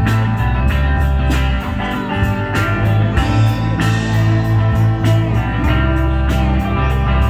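Live rock band playing: electric guitar over heavy bass and drums, with a steady beat.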